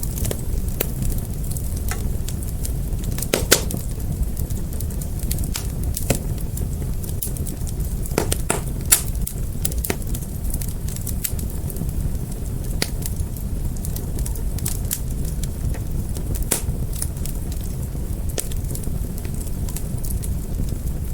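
Wood fire burning with a steady low rumble and frequent irregular crackles and pops, a few sharper pops standing out.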